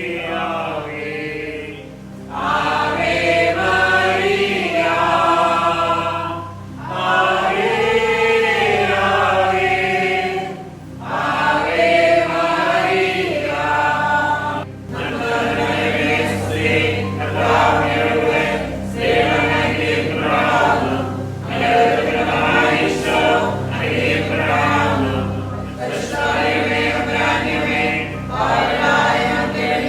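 A choir singing a slow devotional hymn in phrases of a few seconds, over a steady low accompaniment.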